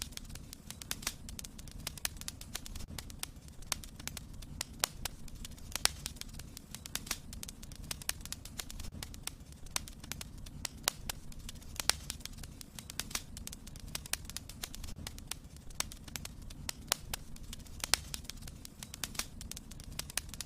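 Fireplace fire crackling: irregular sharp pops and snaps, some louder than others, over a steady low rumble of the flames.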